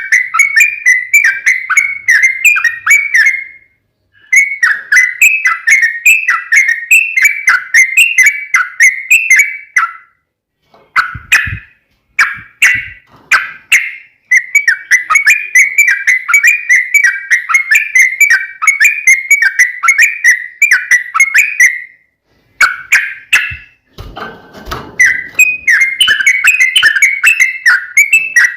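Yellow-vented bulbul (trucukan) singing long runs of rapid, chattering whistled notes, the extended "ropel panjang" fighting song. The runs last several seconds each with short breaks between them, and a few low thumps come about 11 seconds in and again near 24 seconds.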